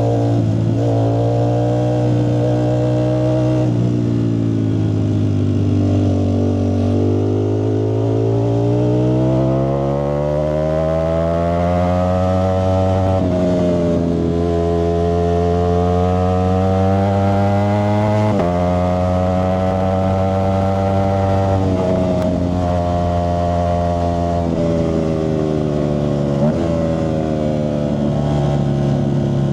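Ducati Streetfighter V4S's V4 engine running through a Zard exhaust. Its note climbs slowly in long pulls, drops suddenly twice, then eases back down.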